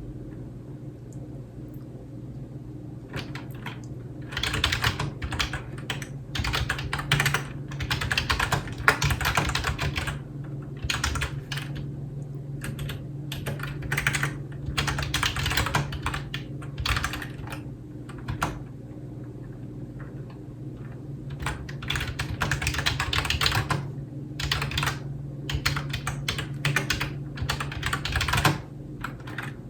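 Typing on a computer keyboard: runs of rapid keystrokes broken by short pauses, starting a few seconds in, with a longer break about two-thirds of the way through. A steady low hum runs underneath.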